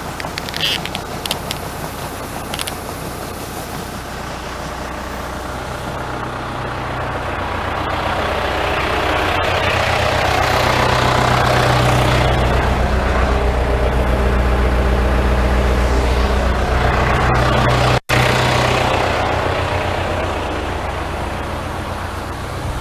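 Farm machinery running with a steady low hum, growing louder through the middle and easing off near the end, cutting out for an instant shortly before.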